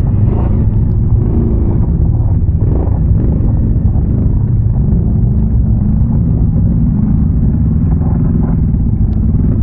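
ATV engine running steadily while riding, a deep continuous rumble with no big revs.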